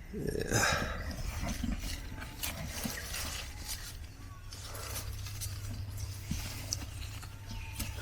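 Soft rustling and small clicks of strawberry plants being handled as rotten berries are checked and picked off, over a faint steady low hum.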